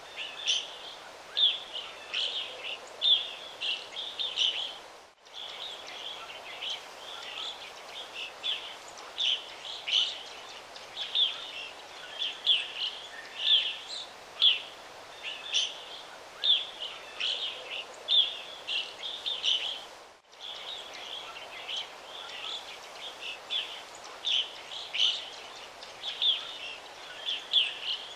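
Birds chirping: many short, repeated chirps, several a second, over a steady outdoor hiss. The sound drops out briefly twice.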